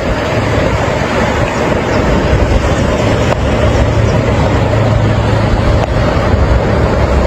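Steady rushing noise with a low engine hum under it: a vehicle moving through floodwater on a road.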